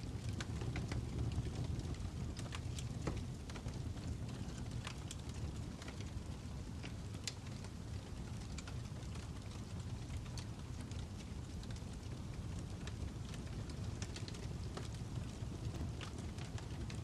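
Fire crackling: irregular sharp pops and snaps, a few every second, over a steady low rumble of burning.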